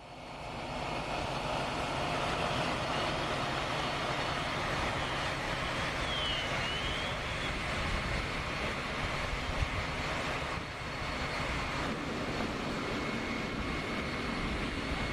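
Heavy engines of fire apparatus running in a steady, rumbling drone. A few faint short whistling glides come in about five to seven seconds in.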